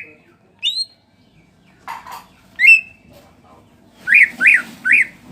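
Greater green leafbird (cucak ijo) in moult giving loud, sharp whistled calls. A rising whistle comes first, then a short rasp, another whistle, and near the end three quick notes that each dip and rise.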